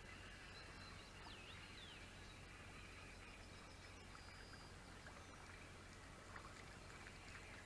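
Near silence: faint outdoor quiet with a bird's whistled call of a few sweeping notes about a second in, and a few faint ticks near the end.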